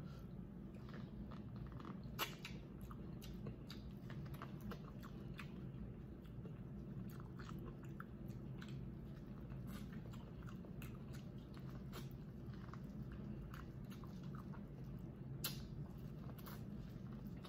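Close-miked mouth sounds of a person chewing and biting food, soft wet smacks and small irregular clicks, with two sharper clicks about two seconds in and near the end, over a steady low background hum.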